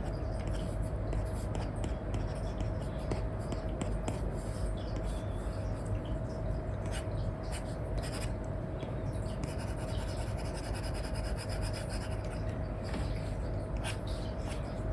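Apple Pencil tip with an Elecom nib scratching and rubbing in short, irregular strokes across a paper-like matte screen film on an iPad, over a steady low hum.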